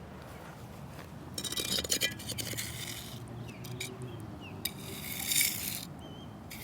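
Metal shovel blade scraping across wet cement to smooth it level: three scrapes of about a second each, the first with gritty clicks.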